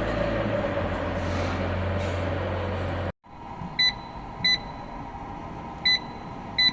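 Silage baler-wrapper running with a steady mechanical hum, which cuts off abruptly about three seconds in. Short electronic beeps from the control panel's touchscreen follow as keys are pressed, four in about three seconds.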